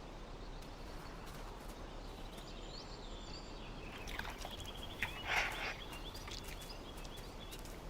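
Quiet outdoor ambience with faint, high bird chirps through the middle, and a brief rustle about five seconds in.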